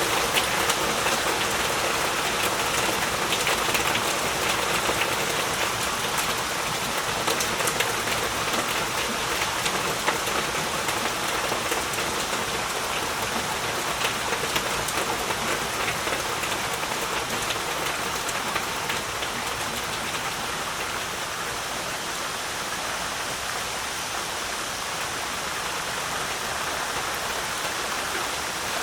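Heavy rain falling steadily, a dense hiss peppered with the taps of individual drops, easing slightly in the second half.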